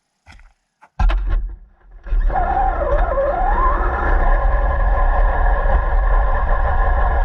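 RC car getting under way: a few small clicks, a sudden loud jolt about a second in, then from about two seconds steady loud running with a motor whine that dips and then rises in pitch, over heavy low rumble.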